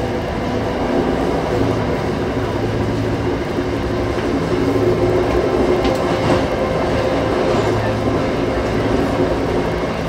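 MBTA commuter rail train running, a steady rumble with a few constant low hum tones and a faint click about six seconds in.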